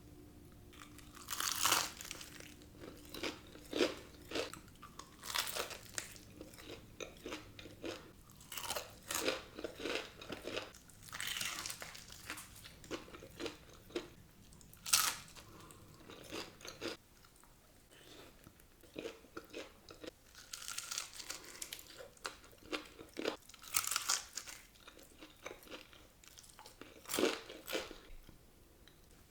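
Crunchy fried chicken being bitten and chewed close to the microphone: repeated crisp crunches of the breaded crust, in clusters of bites with chewing between them.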